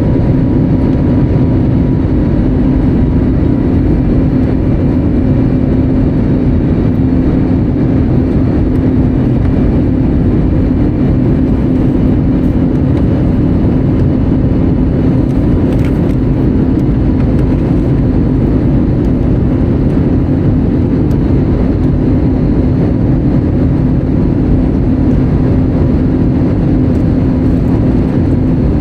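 Airbus A320neo cabin noise in flight: a steady, even rush of engine and airflow noise with a constant low hum, unchanging throughout.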